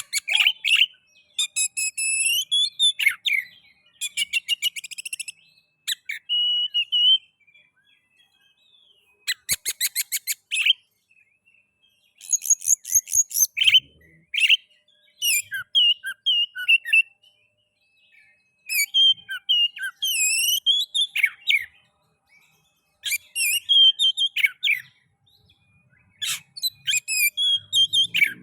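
Oriental magpie-robin (kacer) singing in short bursts of varied whistles, pitch glides and rapid trills, with brief silent gaps between phrases.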